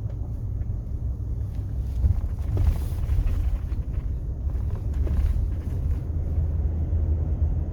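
Pickup truck towing a trailer, driving slowly with a steady low engine and road rumble, and wind buffeting the microphone.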